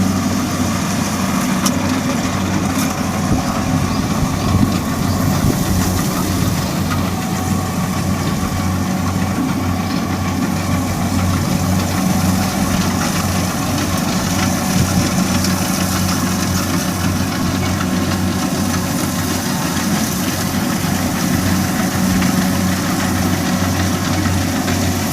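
Kubota DC60 combine harvester's diesel engine running steadily, a constant low drone with machinery noise over it.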